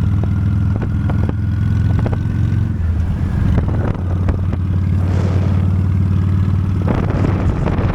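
Honda Steed V-twin motorcycle engine running steadily while riding. The engine note shifts briefly about three seconds in, and a rush of hiss comes near the end.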